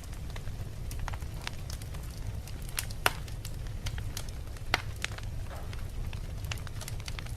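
Wood fire crackling in a fireplace: a steady low rumble with many scattered sharp pops and ticks from the burning logs. Two louder pops come about three seconds and nearly five seconds in.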